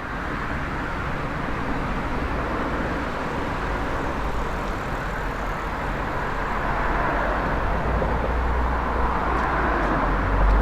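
JR East 185 series electric train approaching, a steady rumble of wheels on rail that grows slowly louder.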